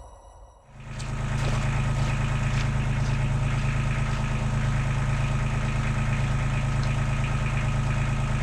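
Heavy-equipment diesel engine idling steadily. It comes in abruptly about a second in and then holds an even, low-pitched drone.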